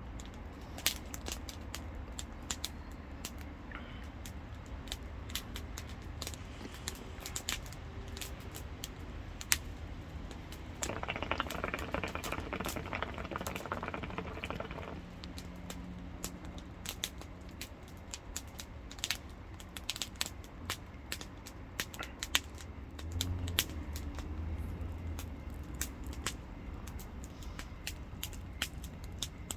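Campfire crackling, with irregular sharp pops over a low steady rumble of burning. A louder stretch of noise lasts a few seconds about eleven seconds in.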